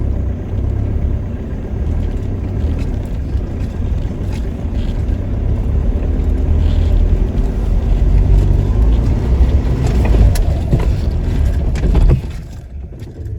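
Toyota Hilux's engine and drivetrain under load on a muddy climb, a heavy low rumble that drops away abruptly about twelve seconds in.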